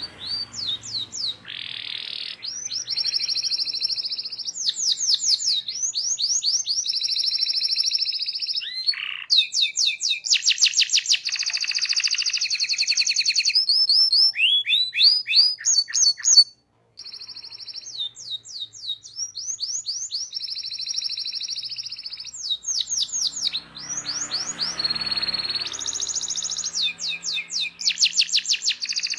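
Domestic canary singing a long, fast song of rapid repeated trills, sweeping notes and held high notes. The song breaks off suddenly for a moment about seventeen seconds in.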